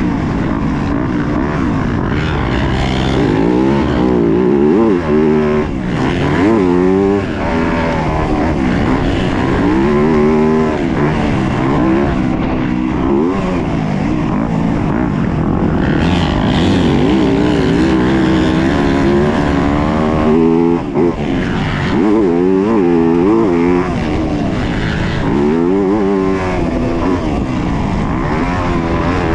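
A 2022 Yamaha YZ250F's 250 cc single-cylinder four-stroke engine racing around a motocross track. Its pitch rises and falls again and again as the throttle is opened and chopped, and it briefly cuts out twice.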